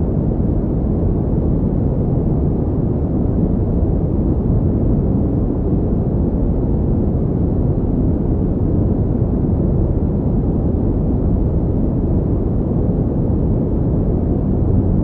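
Steady pink noise, a continuous even hiss with its weight in the low, rumbling end and little treble, unchanging throughout.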